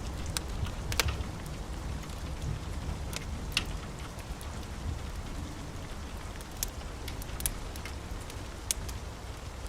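Wood fire burning in a fireplace: a steady low rumble with scattered sharp crackles and pops, the loudest about a second in.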